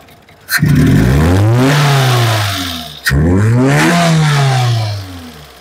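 Perodua Myvi 1.3's K3-VE four-cylinder engine revved twice with the throttle, each time rising in pitch and then dropping back. The engine is freshly overhauled but shakes as if misfiring and knocks intermittently, cause not yet found.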